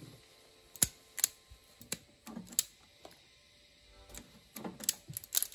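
Sharp clicks from a handheld automatic wire stripper gripping and stripping the end of a speaker wire: a few spaced clicks, then a quicker run of clicks near the end.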